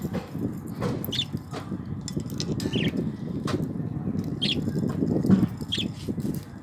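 Budgerigars chirping, short high chirps every second or two, over a steady low rustling.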